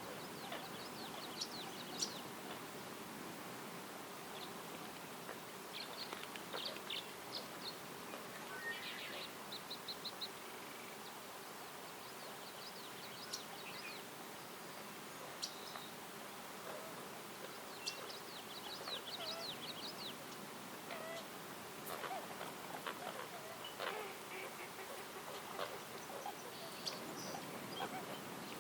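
Several songbirds chirping and trilling in a forest: short bursts of rapid high notes come and go throughout, over a steady outdoor hiss.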